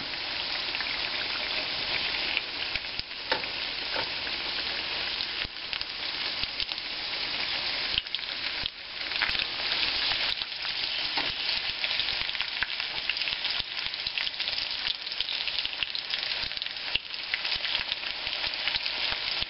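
Crab cakes deep-frying in hot oil in a cast iron skillet: a steady sizzle, with a few light scrapes and knocks of spatulas as the cakes are turned over.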